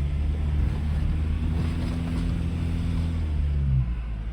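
A 4x4's engine running steadily as it drives a track, easing off just before the end.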